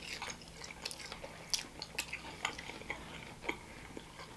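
Close-miked mouth sounds of a man chewing a saucy Thai peanut chicken wing: wet smacks and clicks at irregular intervals, the sharpest about halfway through.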